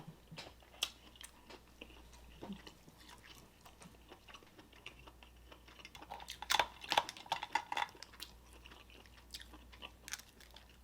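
Close-miked chewing of Dungeness crab, with scattered crunches and clicks and a dense run of crackling clicks about six to eight seconds in.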